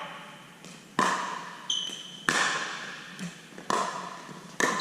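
Pickleball rally: a hollow plastic ball struck back and forth by paddles and bouncing on the court, sharp pops about every two-thirds of a second, with a brief high squeak near two seconds in.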